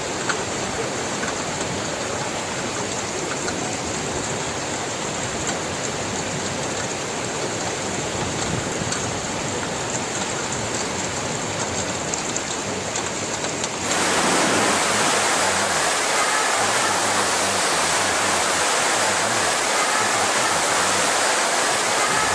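Floodwater rushing in a steady stream of noise. About two-thirds of the way through it changes abruptly to a louder, brighter rush of water.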